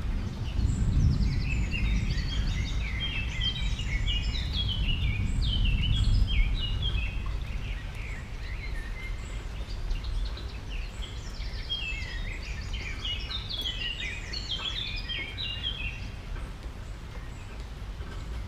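Small birds twittering in two spells of rapid, high, overlapping chirps, over a steady low rumble.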